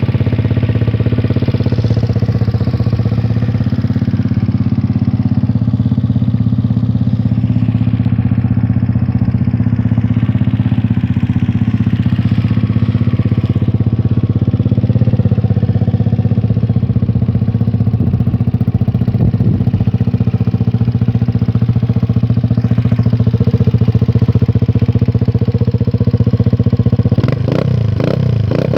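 Vento Urban GT 150cc motorcycle engine idling steadily through an SRP shorty aftermarket exhaust. Near the end the revs begin to rise and fall.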